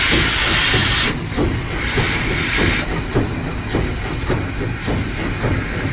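Heisler geared steam locomotive running, heard from the cab: a loud steam hiss cuts off about a second in, with a fainter hiss lasting a little longer, over a low rumble and a quick, even beat of knocks from the running locomotive.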